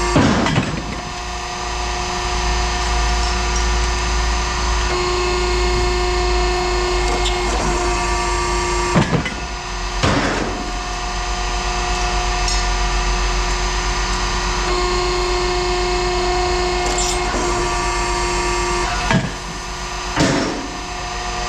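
Machinery running with a steady drone at several fixed pitches over a low hum, with a few sharp knocks: one right at the start, two around the middle, and two more near the end.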